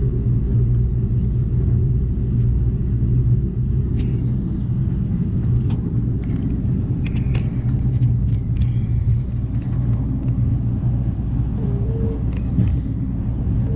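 Steady low rumble of an Amtrak Cascades passenger train running on the rails, heard from inside the passenger car, with a few faint clicks and rattles over it.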